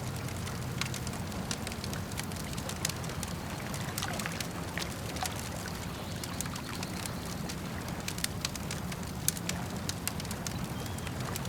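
Campfire crackling with irregular sharp pops and snaps over a steady low rumble of lake water lapping.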